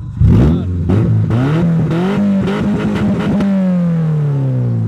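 Subaru WRX/STI turbocharged flat-four revved through an exhaust with its stock rear section removed. It snaps up in revs a quarter-second in, climbs and holds with several sharp pops, then the revs glide steadily back down over the last second and a half.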